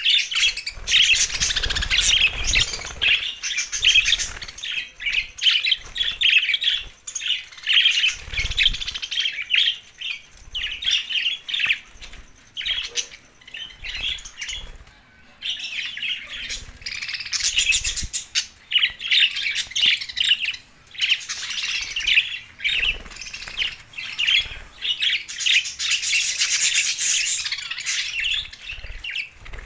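Budgerigars chattering and warbling in rapid, continuous chirps, with a few brief low thumps.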